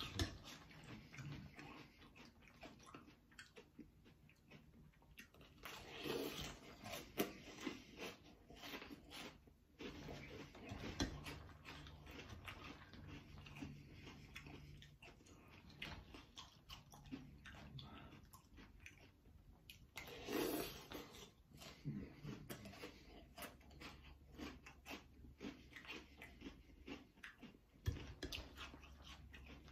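Faint chewing and crunching of Cap'n Crunch's Crunch Berries cereal in milk, mouthful after mouthful, with a metal spoon now and then clinking and scraping in a glass bowl.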